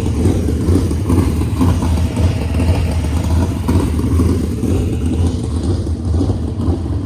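410 sprint car engines running on the dirt track, a steady loud drone of engines under throttle.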